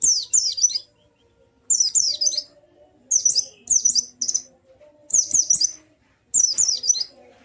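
White-eye (pleci) singing: five short bursts of quick, high chirps that rise and fall, separated by brief pauses.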